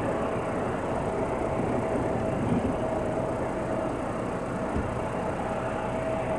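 Aircraft tow tractor running steadily while towing a Boeing 767: a continuous mechanical rumble with a steady mid-pitched whine and a small knock about two and a half seconds in.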